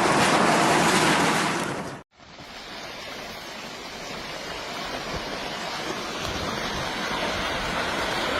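A loud rushing noise cuts off about two seconds in. It is followed by the steady rushing of a landslide, which sounds like a raging river and grows gradually louder.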